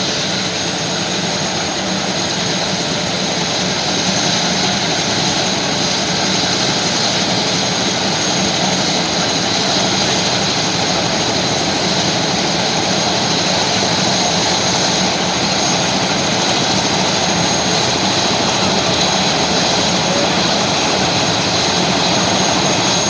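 Helicopter in flight: steady, loud engine and rotor noise with a constant high whine over it.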